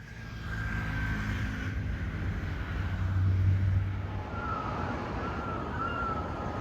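Airliner jet engines running, a steady low drone with a thin whine above it.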